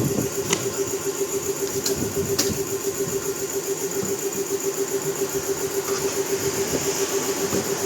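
A machine running steadily with a hum that pulses quickly and evenly, and a few light clicks over it.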